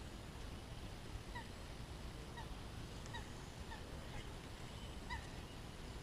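Faint short bird calls, about six of them roughly a second apart, each dipping slightly in pitch, over a low steady outdoor background noise.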